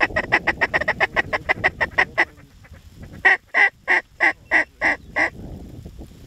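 Goose calling: a fast run of short clucks for about two seconds, then, after a pause, seven louder honks about a third of a second apart.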